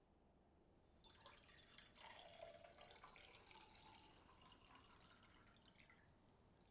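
Liquid being poured in a thin stream into a container, a faint splashing that starts about a second in and tails off near the end.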